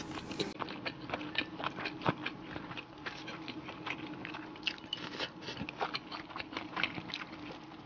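A person chewing mouthfuls of rice and stewed food, with many short mouth clicks.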